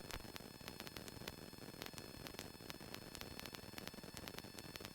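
Faint hiss and static with scattered soft clicks on an aircraft headset intercom line, with no one transmitting or talking.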